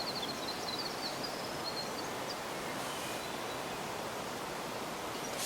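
Outdoor morning ambience: a steady background hiss, with a faint, high bird trill in the first moments and a few scattered chirps after it.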